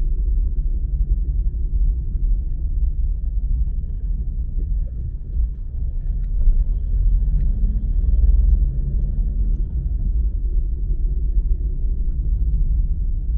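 Car driving: a steady low rumble of road and engine noise, with a few faint ticks.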